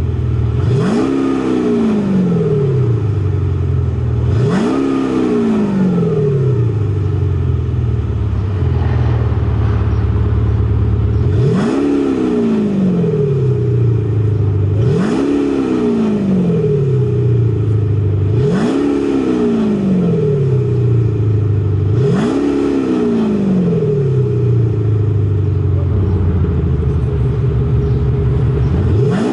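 Jeep Wrangler fitted with a Kufatec active sound system, revved about six times while standing. Each blip rises quickly and falls away slowly, with short steady idling between, and the system adds a deep, heavy engine note.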